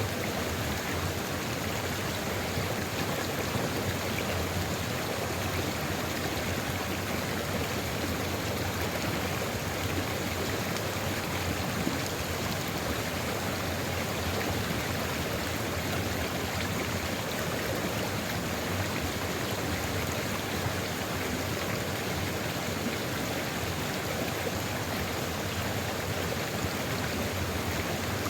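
Sulfur river at Ijen Crater flowing: a steady, even rush of running water with no breaks or changes.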